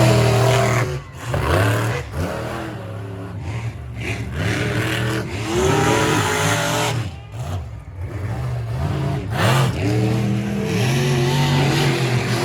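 Racing engines revving hard and backing off again and again, the pitch sweeping up and dropping in quick repeated climbs as the vehicles race around the track.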